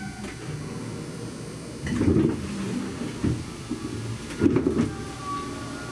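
Moving electric train heard from inside the car: a steady low rumble of running gear, with two heavier clusters of knocks and jolts, about two seconds in and again about four and a half seconds in.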